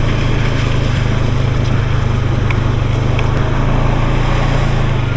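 ATV engine running at a steady, even speed as it rides along a trail, a constant drone.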